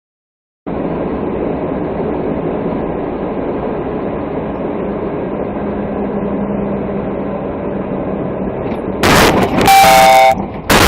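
Steady road and engine noise in a car, then about nine seconds in a loud horn blaring in long blasts with a short break.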